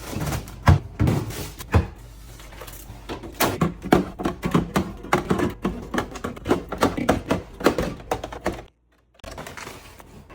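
Groceries being put away: irregular thunks, knocks and clatter as packages and containers are handled and set down on shelves and counters. The sound drops out briefly near the end.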